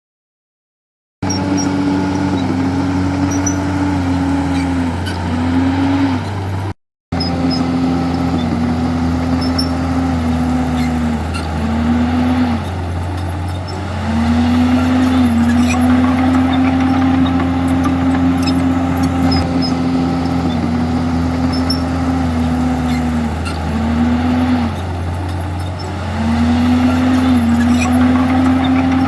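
Komatsu D51EX bulldozer's diesel engine running hard under load, a steady low drone whose pitch sags briefly every few seconds as the engine lugs and recovers.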